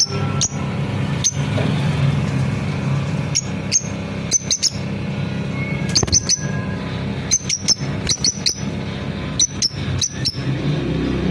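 Lovebirds chirping: short, sharp, high chirps in quick clusters of two or three, every second or two, over a steady low hum.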